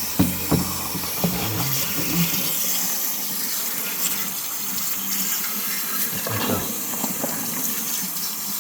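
Mains water from the filling loop running steadily through a tube into a Worcester Greenstar 28i Junior boiler's heat exchanger, a continuous rushing hiss as the exchanger is flushed clean. A few short knocks in the first two seconds and again about six and a half seconds in.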